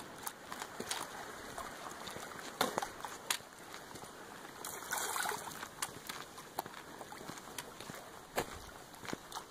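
Water running steadily, like a small stream or trickle, with scattered sharp clicks and taps over it and a brief louder splash of noise about halfway through.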